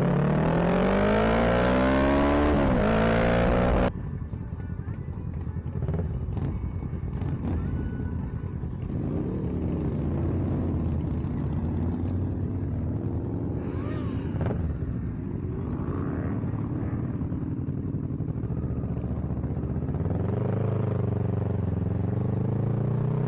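Motorcycle engine accelerating hard, its pitch climbing with a brief dip at a gear change. It cuts off abruptly into a quieter, steady engine rumble with scattered clicks. Near the end the engine accelerates again with rising pitch.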